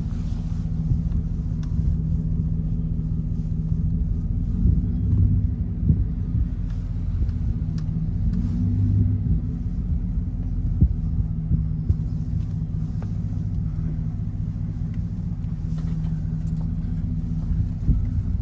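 Vehicle engine running steadily at low speed, a continuous low rumble heard from aboard while driving slowly, with occasional knocks and rattles.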